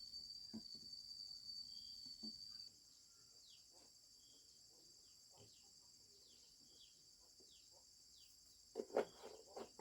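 Faint rural ambience: a steady high insect trill throughout, with short falling bird chirps here and there, and a louder animal cry near the end.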